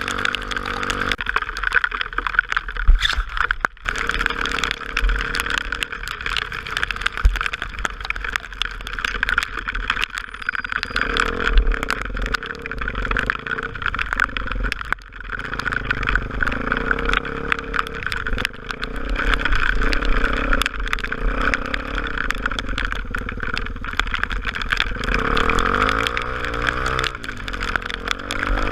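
Honda XR250 Tornado's single-cylinder four-stroke engine running while riding, over a steady rushing noise. Near the end the engine pitch rises and falls.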